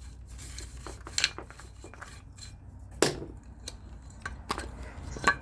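Scattered clicks and knocks from parts and tools being handled during a fan teardown. The louder knocks come about a second in, around three seconds in and just before the end, over a faint low hum.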